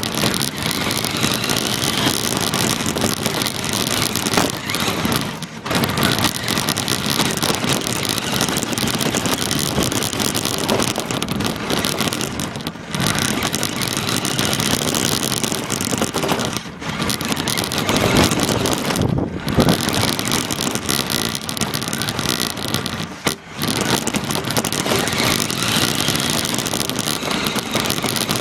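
Radio-controlled car driving, heard from a microphone strapped to the car: a loud, rough rush of drivetrain, tyres and bumping, with a few short moments where the noise suddenly drops off.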